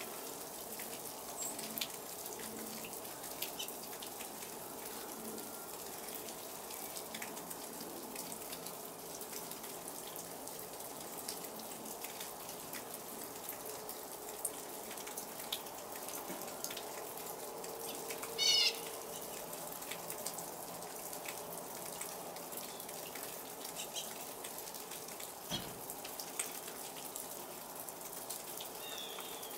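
Sleet falling steadily, a fine pattering of ice pellets ticking on surfaces. A bird gives a brief rapid chirping call about eighteen seconds in and two short chirps near the end, and there is a soft thump a few seconds before the end.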